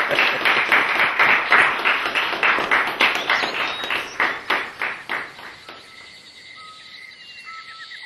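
Hand clapping in a steady rhythm, about four claps a second, fading out about five and a half seconds in. After it come faint high chirping calls, with a rapid trill near the end.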